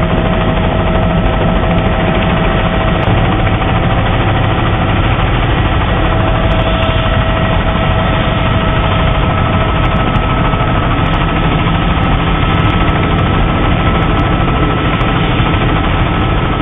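Helicopter turbine and rotor noise, steady and loud with a constant whine over a heavy low rumble; it cuts off suddenly near the end.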